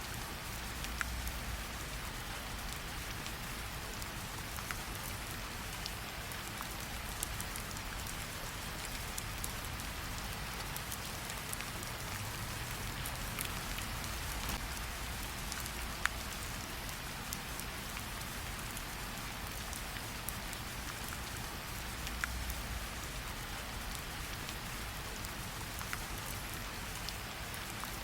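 Steady rain falling, with scattered sharp pops and crackles from a campfire; one pop about halfway through stands out above the rest.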